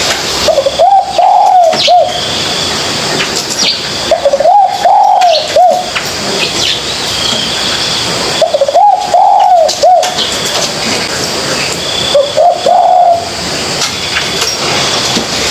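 A young spotted dove cooing in four phrases about four seconds apart, each a short run of three or four coo notes, over a steady hiss and faint high chirps of other birds.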